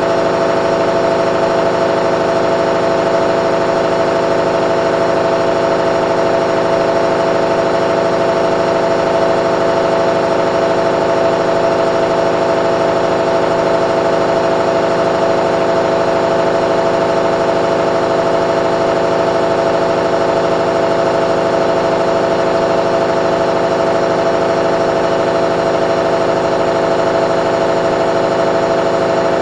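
Candy front-loading washing machine spinning its drum at steady speed, with a constant, unchanging motor whine.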